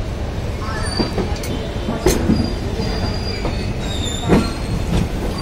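Train rolling slowly over station track with a steady rumble. Sharp wheel clacks over rail joints and points come about one, two and four seconds in. Thin, high wheel squeals sound from the rails.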